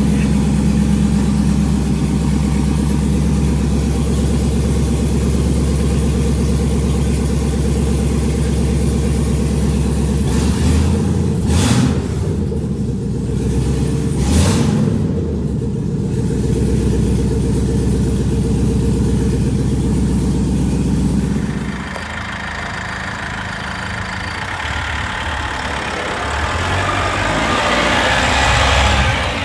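A vehicle engine running steadily, revved briefly twice about halfway through. About three quarters of the way in the engine sound drops away and a rising rush of noise builds toward the end.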